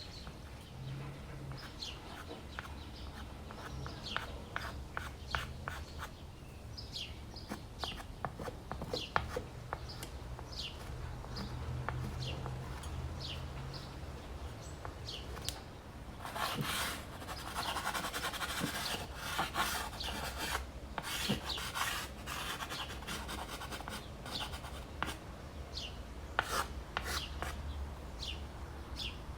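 Dry pastel scratching and rubbing across primed canvas in short strokes, with denser stretches of rubbing about halfway through and again near the end. Small birds chirp in the background.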